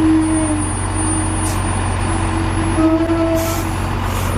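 Heavy truck hauling an oversized load, its engine running with a steady low drone. A held humming tone comes in twice, and there are a few short hisses of air.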